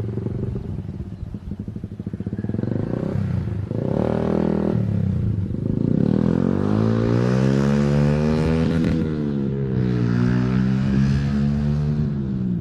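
Small motorcycle engine running and being revved, its pitch rising and falling twice.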